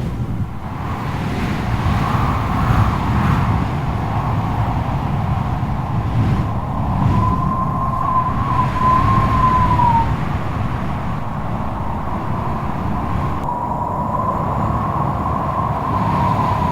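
Strong wind blowing hard, a deep rumble under a howling whistle that wavers in pitch about seven seconds in and again near the end.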